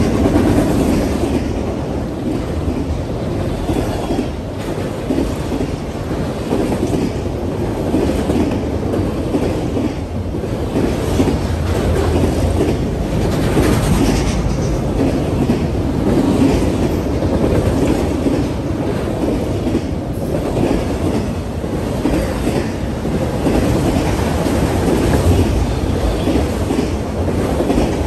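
Freight train of enclosed autorack cars rolling past: a steady rumble of steel wheels on rail, with clickety-clack of the wheels.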